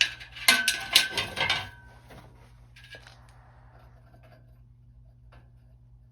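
Metal pieces clinking and clattering together: a quick run of sharp metallic hits over about a second, with a short ringing tone among them, then a few lighter knocks.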